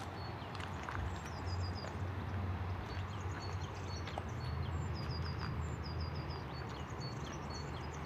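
Small songbirds chirping, with short high notes repeated in quick runs, over a steady low rumble.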